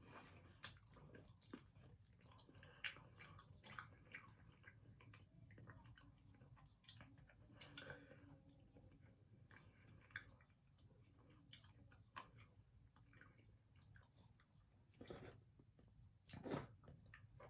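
Faint chewing of chicken wings close to the microphone, with scattered small crunches and wet mouth clicks. A few louder bites come near the end.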